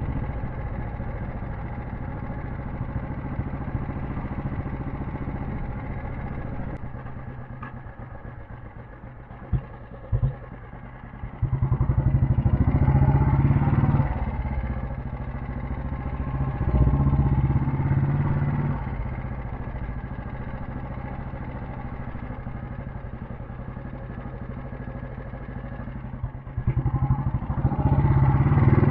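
Royal Enfield Bullet 350 cast-iron single-cylinder engine running on the move, steady between three stretches where the throttle is opened and it gets louder for a couple of seconds each, around the middle and near the end. Two short knocks about a third of the way in.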